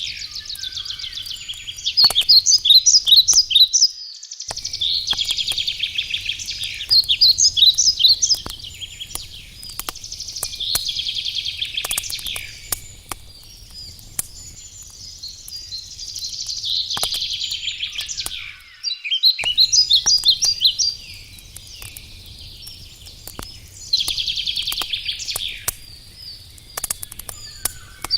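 A songbird singing the same short song over and over, every four or five seconds, each a fast trill ending in a run of louder notes, over the scattered pops and crackles of a wood campfire.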